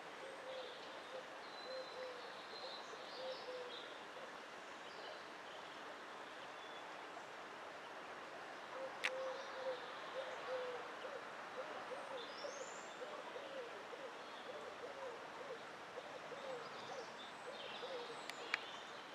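Birds calling: a low cooing or hooting call repeated in short phrases, briefly at first and then for about ten seconds from midway, with higher songbird chirps above it over a steady faint hiss. Two sharp clicks stand out, about halfway and near the end.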